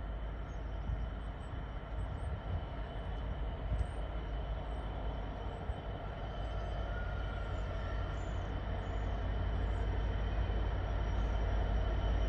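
A train running on the line, its rumble growing gradually louder over the second half.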